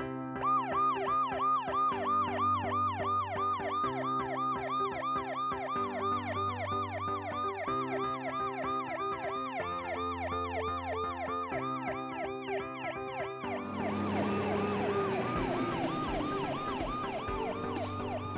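Police car siren in a fast yelp: a quick rise and fall of pitch repeating about three or four times a second. About three-quarters of the way through, a hiss joins it.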